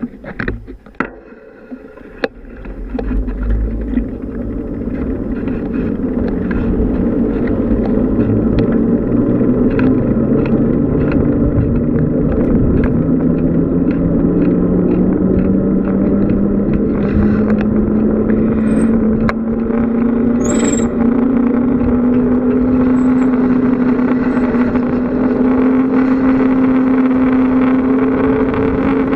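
Wind noise on the microphone and tyre noise from a bicycle picking up speed downhill, growing louder over the first several seconds and then holding steady. A hum rises slowly in pitch as the bike gains speed.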